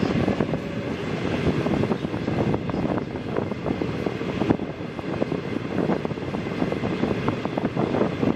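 Passenger coach running along the track, heard from its window: a steady rolling rumble of wheels on rail, with dense clicking and rattling and some wind rush.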